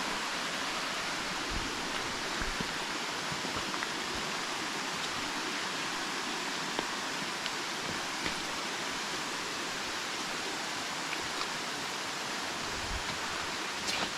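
Creek water pouring over a rock cascade: a steady, even rush of falling water with no change in level.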